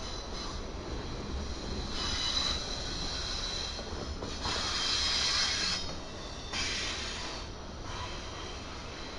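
Intermodal freight train cars rolling past on the rails with a steady low rumble, and three louder bursts of high-pitched wheel squeal a couple of seconds apart.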